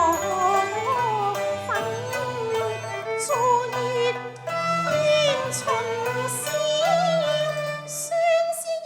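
Cantonese opera music: a sliding melody line with vibrato over sustained low notes from the accompanying ensemble.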